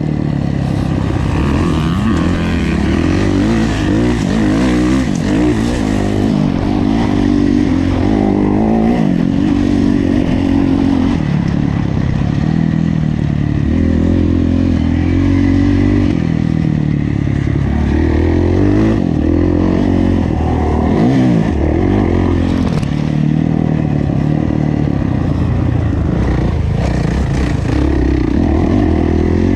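Kawasaki KX450F four-stroke single-cylinder motocross engine under race load, its pitch rising and falling over and over as the rider accelerates, shifts and backs off, heard from on board the bike.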